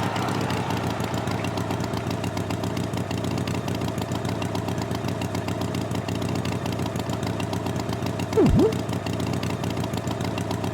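Tractor engine running steadily at idle, a fast even chugging. About eight and a half seconds in, a short swooping sound drops sharply in pitch and rises again.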